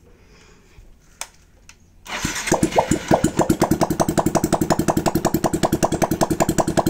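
Yamaha Sniper MX135's single-cylinder four-stroke engine starting about two seconds in and idling with no exhaust pipe fitted, firing straight out of the open exhaust port as a loud, rapid, even popping.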